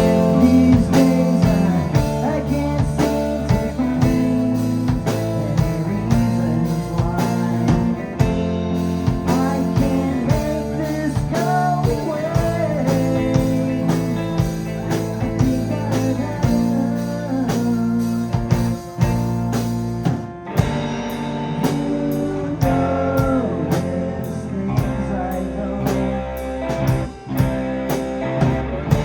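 Live rock band playing an instrumental passage on electric guitar, bass, drum kit and keyboards. The full band comes in loudly right at the start after a brief pause, and about twenty seconds in the sound thins as the cymbals drop out.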